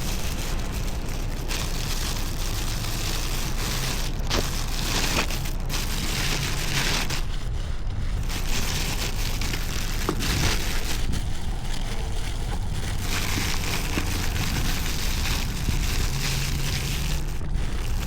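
Kawasaki Ninja 500's parallel-twin engine running as the motorcycle is ridden, with wind rushing over the microphone that rises and falls.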